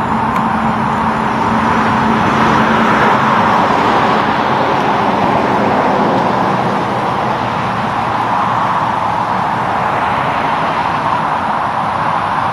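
Steady, loud highway traffic noise: the tyre and engine sound of passing road vehicles, with a low engine hum in the first few seconds that fades away.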